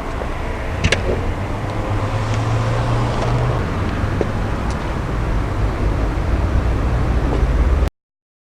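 Mercedes-AMG CLA45's 2.0-litre turbocharged four-cylinder running with a steady low rumble, a single click about a second in, the sound cutting off suddenly near the end.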